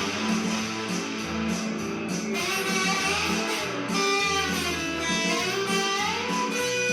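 Blues guitar playing: strummed chords over a repeating bass line, with lead notes that bend and slide in pitch through the middle.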